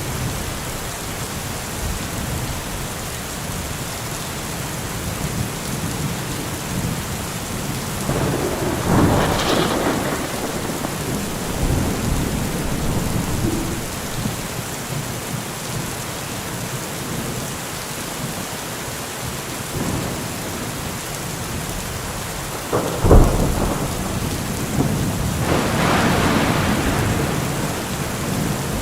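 Steady rain with thunder: a roll of thunder swells about a third of the way in, a sharp thunderclap cracks around three-quarters through, and a longer roll of thunder follows near the end.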